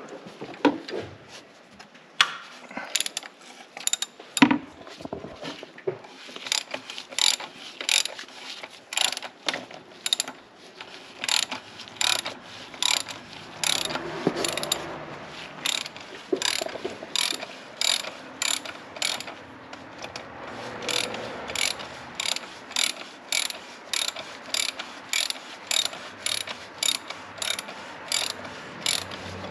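Socket ratchet clicking in a steady, even rhythm of about two clicks a second while it backs off a tight cartridge oil-filter housing cap.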